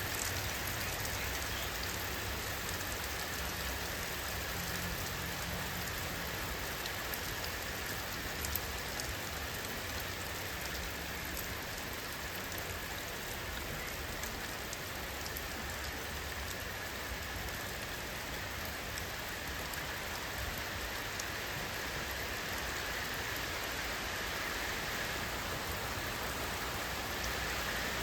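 Steady rainfall: an even hiss of rain with many small drop impacts scattered through it.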